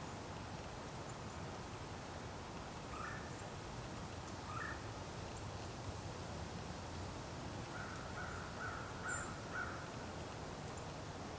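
Bird calling in the distance over a steady outdoor hiss: two single harsh calls a second and a half apart, then a quick run of about six calls near the end, with one faint high chirp among them.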